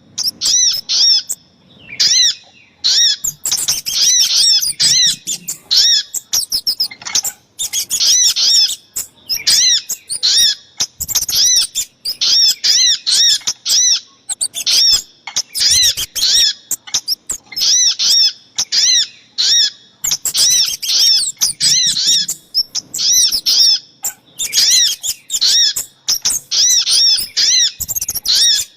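Rapid, repeated high chirping calls of small birds, the sogok ontong and kemade, in bursts of a second or two with short pauses between them: a bird-lure recording.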